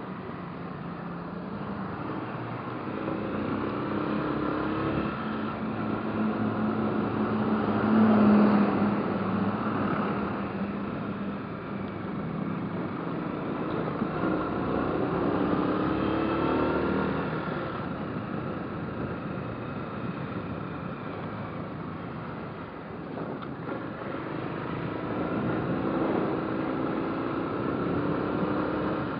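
Motorcycle engine running on the road, its revs rising and falling several times as it accelerates and eases off, loudest about eight seconds in.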